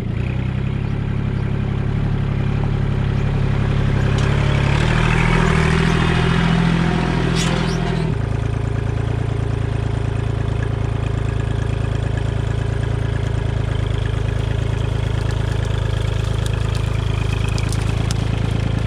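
Compact tractor engine running steadily, with a louder, noisier stretch that ends as the engine note shifts about eight seconds in.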